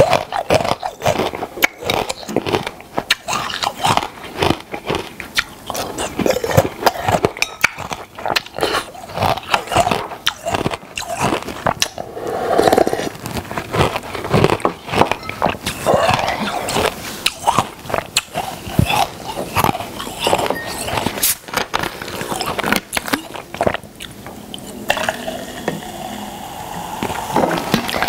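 A person biting and chewing crunchy food close to the microphone, with many irregular sharp crunches and mouth sounds. The crunching eases off for a few seconds near the end.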